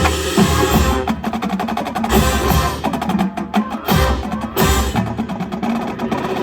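Marching band playing its field show, with the percussion section prominent: rapid snare and drum strokes and wood-block clicks over the winds.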